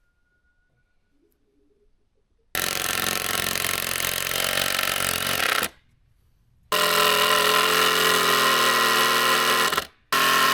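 Cordless impact driver driving fasteners, run three times with short pauses: a steady motor whine under the rapid hammering rattle of the impact mechanism.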